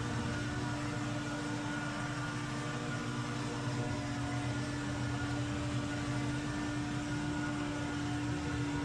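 Power equipment engine running at a steady speed, with a constant hum that holds one pitch throughout.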